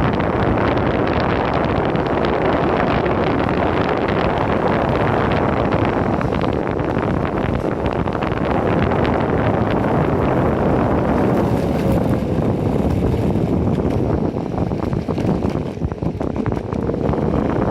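Heavy wind buffeting a phone microphone while riding an Enertion Raptor 2 electric skateboard. Under the wind runs the rush of the ride, with a faint whine that slides down in pitch and rises again near the end. The wind eases briefly near the end.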